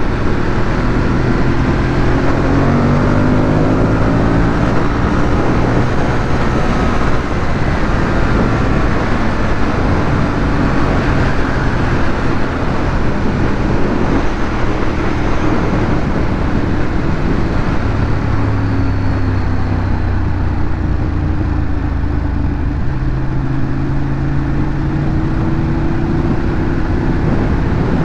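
Ducati Monster 821's 821 cc L-twin engine running through its stock exhaust while riding, its pitch climbing and easing off several times as the throttle and gears change, over a steady rush of wind and road noise.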